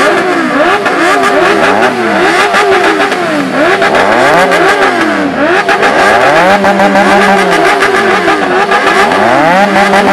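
Benelli superbike engine revved in repeated throttle blips, its pitch climbing and dropping about once a second, and held at high revs for about a second twice in the second half.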